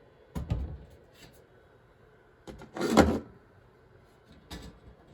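A few short knocks and clunks of handling, the loudest about three seconds in, over a quiet background.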